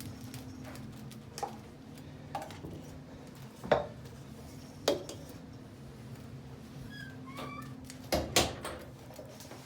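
Scattered knocks and clinks from someone moving between rooms and handling things, with a pair of sharper knocks near the end. Underneath runs a steady low hum, and a few brief high squeaks come about two thirds of the way in.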